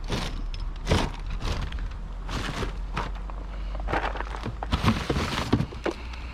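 Rummaging and handling of junk in a kerbside rubbish pile: irregular rustles, scrapes and knocks, with the loudest ones about a second in and near five seconds, over a steady low rumble.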